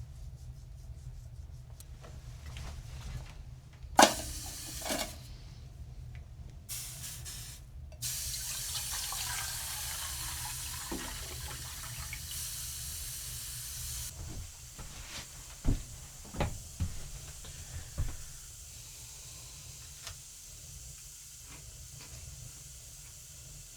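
Liquid being poured into a container for several seconds, with a sharp knock before it and a few knocks after it.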